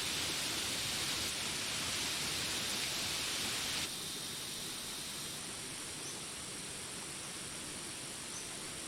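Steady rain hiss that drops abruptly to a quieter level about four seconds in. Faint, steady, high-pitched insect calls then sound over the rain.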